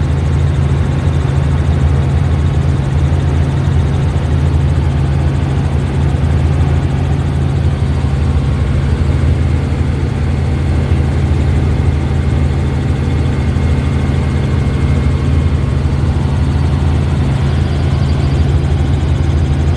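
Tour helicopter in flight, heard from on board: its rotor and engine make a loud, steady low drone that does not change.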